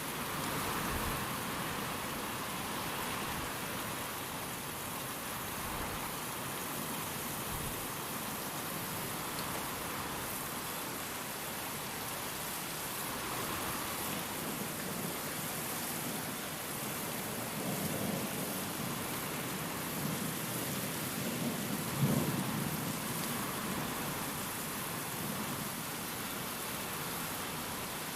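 Steady heavy rain and wind. Thunder rumbles low in the second half and peaks in one sharp crack about three quarters of the way through.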